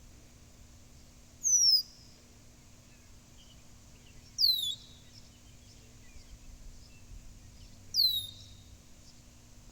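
A blackbird calling: three short, high whistles a few seconds apart, each sliding down in pitch.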